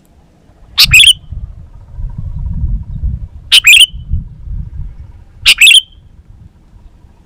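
Sooty-headed bulbul giving three short, loud bursts of bubbling call notes, roughly two seconds apart, over a low rumble.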